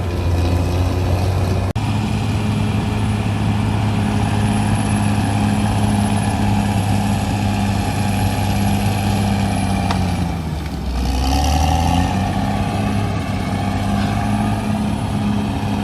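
CAT D6R XL bulldozer's diesel engine running steadily under load. About ten seconds in, the engine pitch sags briefly, then climbs back up.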